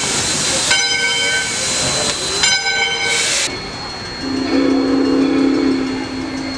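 Steam locomotive whistle sounding two blasts, with loud bursts of steam hissing around them. From about four seconds in a steady, lower-pitched tone sounds for over two seconds.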